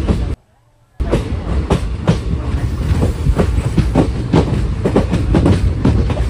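Indian Railways express train's coaches rumbling and clattering over rail joints and points, heard from an open coach doorway, with many irregular sharp clacks. The sound cuts out for about half a second near the start.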